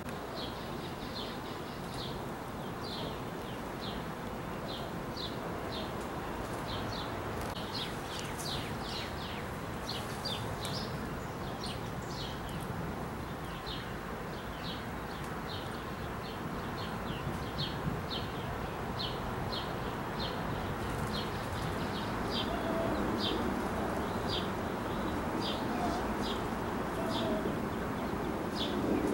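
A small songbird chirping over and over, short high chirps about one or two a second, over a steady low background rush.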